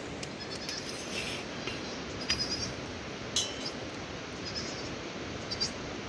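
Steady hiss of heavy rain, with scattered sharp clinks and ticks over it, the loudest about two and three and a half seconds in.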